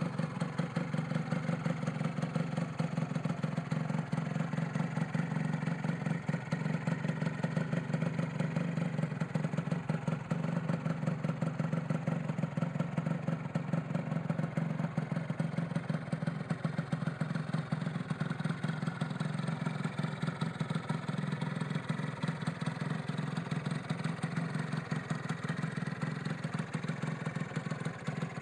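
Honda NS125R's single-cylinder two-stroke 125 cc engine idling steadily, with a rapid even pulse and no revving.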